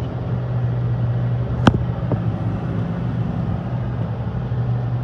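Tractor engine running steadily under load, a low even drone, with one sharp click about a second and a half in.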